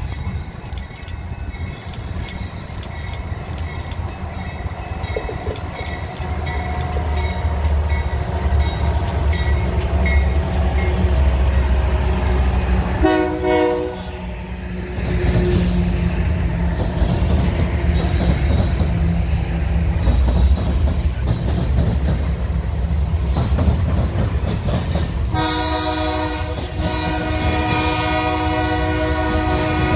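Freight train's diesel locomotives rumbling louder as they approach and pass, with a short horn blast about halfway through. The freight cars then roll by with wheels on the rails, and a long multi-note horn blast sounds over the last five seconds.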